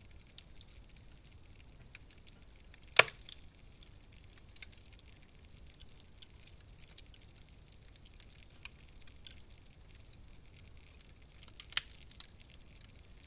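Wood fire crackling: sparse small ticks over a low hiss, with a sharp loud pop about three seconds in and another near the end.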